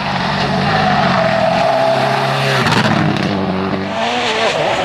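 Rally car passing at speed on a special stage, its engine running hard with tyres squealing. The engine note breaks and changes pitch a little under three seconds in, as at a gear change.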